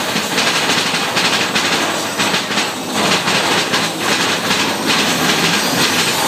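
Mine-train roller coaster clattering along its track at speed, heard from on board: a dense, continuous rattle of wheels on rails.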